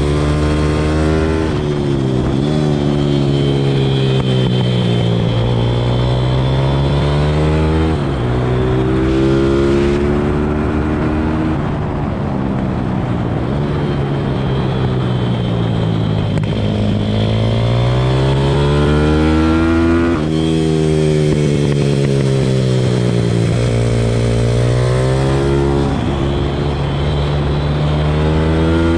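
Pit bike's single-cylinder engine revving hard through the gears and easing off for corners. Its pitch climbs in long sweeps and drops sharply several times.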